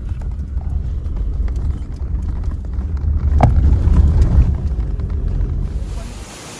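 Car driving on a road, heard as a heavy low rumble with a brief sharp knock about three and a half seconds in. Near the end it gives way to the steady rush of a waterfall.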